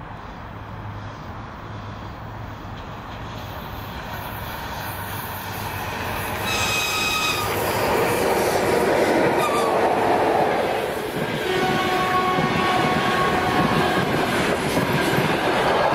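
ЭП1М electric locomotive and its passenger carriages rolling past, the rumble of wheels on rail growing louder as the train draws near. A short, high horn blast sounds about six and a half seconds in, and a lower, steady horn note follows from about eleven and a half seconds on as the carriages go by.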